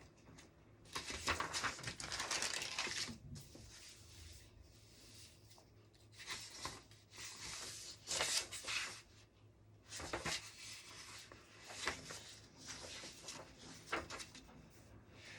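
Paper rustling and being handled at a desk, in several bursts of rustling and scraping about a second to two seconds long.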